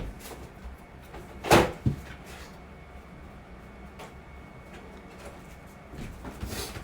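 A brief thump about one and a half seconds in, followed by a smaller one, then a softer rustling bump near the end.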